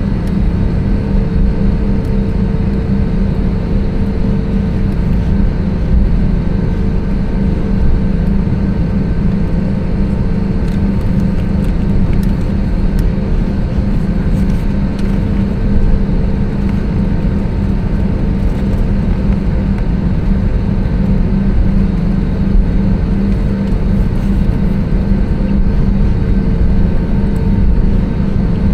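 Steady cabin noise inside an Airbus A320neo airliner: the engines running and the rush of air make a constant low hum with a few fixed tones that do not change in pitch.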